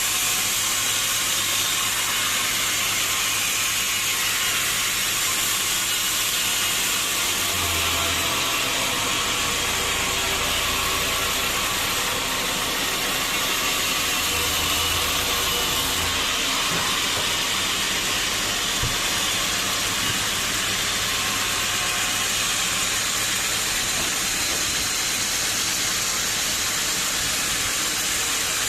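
Sawmill saw running through a teak log: a steady, loud hissing noise, with a low hum joining for several seconds in the middle.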